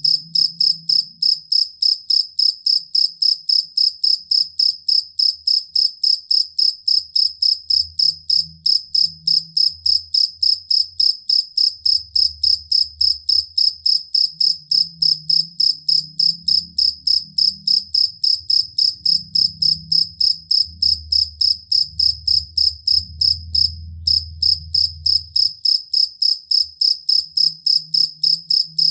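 Field cricket (jangkrik kalung, the two-spotted cricket) chirping in a steady, even rhythm of about three short, high chirps a second, with a faint low rumble beneath.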